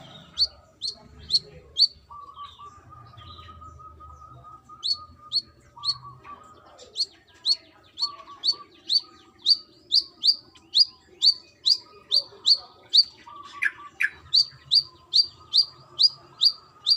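Brown-throated sunbird calling: a series of sharp, high notes, each dropping quickly in pitch, about two a second, with a pause of a few seconds after the first four.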